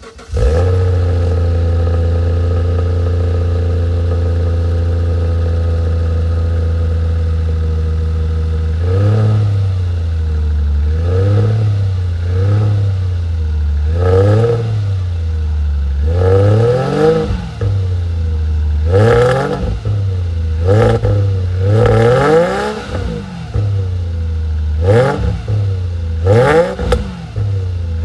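Subaru Legacy's EZ30 flat-six engine through a Kakimoto Regu 06&R exhaust, idling steadily, then revved in repeated throttle blips from about nine seconds in, the pitch rising and falling with each; the later blips are shorter and sharper.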